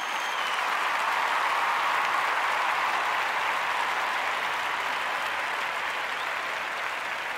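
A steady, even rushing noise with no distinct strokes or tones, easing off slightly toward the end.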